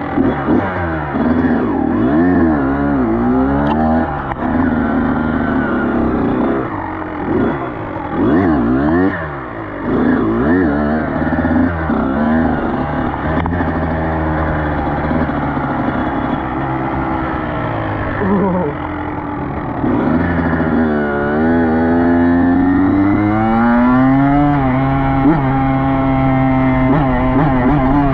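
Dirt bike engine revving under riding load, its pitch rising and falling again and again as the throttle is worked through the gears, then one long climb in pitch about two-thirds through.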